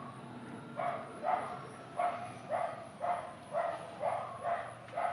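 An animal giving short, sharp barks in a steady series, about two a second, over a faint steady high-pitched hum.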